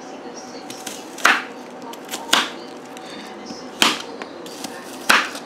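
Knife chopping on a cutting board: four separate strokes, about a second or more apart.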